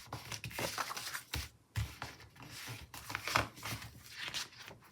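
Paper planner stickers being peeled from their backing sheet and pressed down: an irregular run of crinkly rustles and small ticks.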